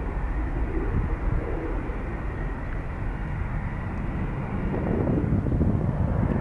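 Jet airliner's engines running with a steady, deep noise just after takeoff, growing a little louder about four and a half seconds in.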